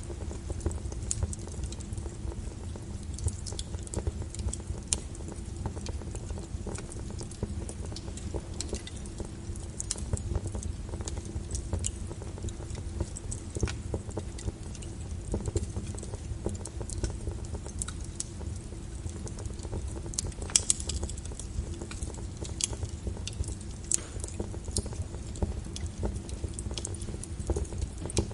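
Wood fire crackling in a fireplace: irregular snaps and pops over a low steady rumble, with a few sharper pops about two-thirds of the way through.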